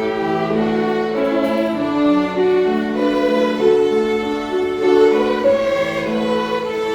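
String ensemble playing a slow hymn arrangement: bowed strings holding long notes in several parts, moving to a new chord every second or so.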